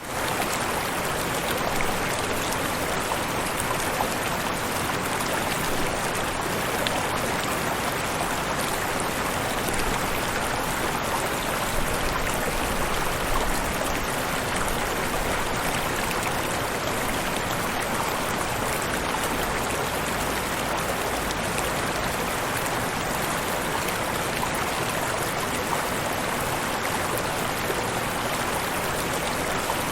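Waterfall: falling water rushing steadily and evenly, without a break.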